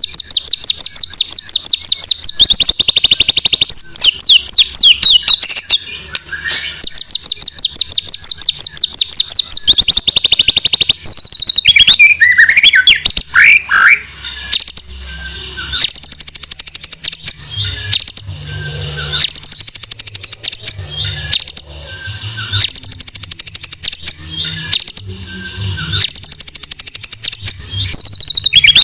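White-rumped shama (murai batu) singing loudly. Its song opens with long, fast rattling trills of rapidly repeated high notes, then moves to varied whistled phrases and repeated bursts of high chattering notes from about halfway on.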